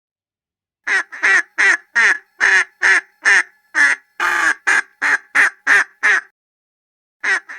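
Duck quacking: a fast run of about a dozen quacks starting about a second in, then a short pause and another run of quacks near the end.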